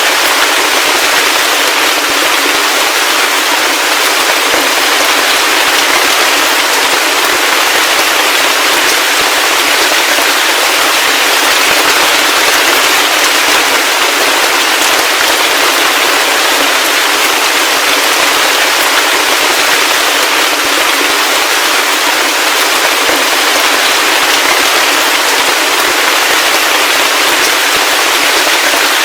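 Steady heavy rain: a dense, even hiss of countless small drop impacts with a fine crackle and no low rumble or thunder.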